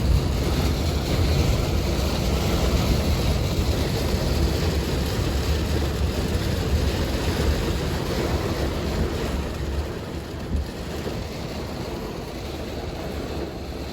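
Heavy monsoon rain pelting a vehicle, heard from inside as a steady hiss over a low rumble; the rumble eases about ten seconds in.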